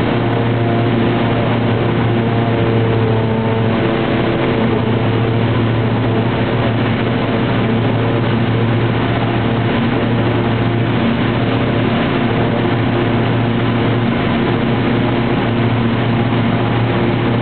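Airliner engine noise heard from inside the cabin during climb-out after take-off: a steady loud roar with a constant low hum.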